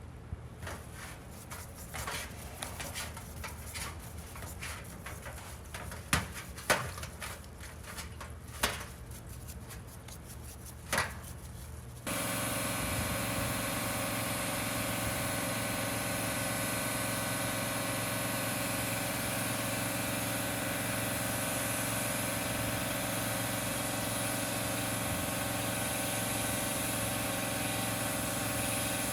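Irregular knocks and clicks of handwork, with a few sharp loud strikes. About twelve seconds in the sound changes abruptly to a motor running steadily with a constant hum.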